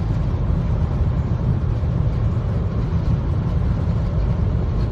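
Steady low road and engine rumble inside a car's cabin at high speed.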